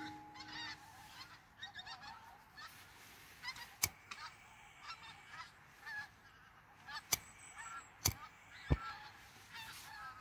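Faint bird calls repeating throughout, with four sharp clicks in the second half.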